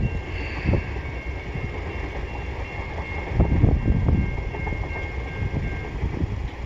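CN freight train rolling past, its cars rumbling and the wheels thumping over the rail joints, with a steady high whine that stops near the end.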